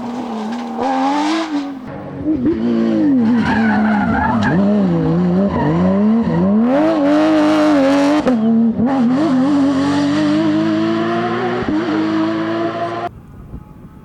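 Porsche 911 GT3 rally car's flat-six engine revving hard, its pitch climbing and dropping repeatedly through gear changes and lifts, with loud bursts of tyre and gravel noise around the middle. About a second before the end the sound drops suddenly to a much quieter scene with a faint, slowly rising whine.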